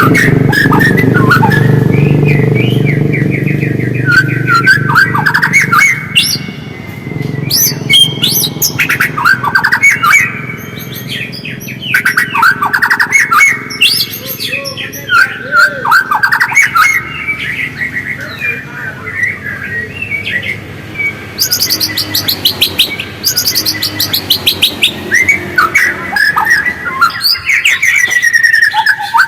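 White-rumped shama (murai batu) singing a varied song of whistles, chirps and fast rattling trills. A low hum lies under the first few seconds and fades out.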